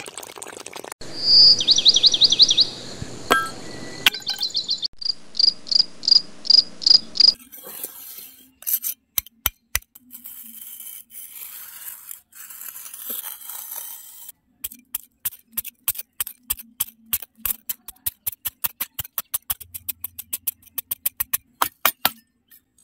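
A cricket chirps in short, rapidly repeated trills for the first several seconds. Then a metal scraper blade chips and scrapes at hard, dry packed soil, making a long run of sharp clicks and scrapes that come several a second toward the end.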